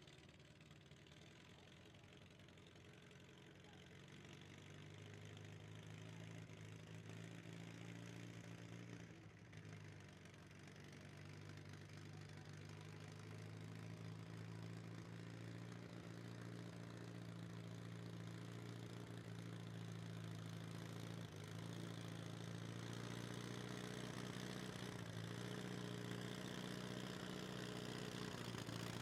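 A large vehicle engine running at a steady speed, growing gradually louder.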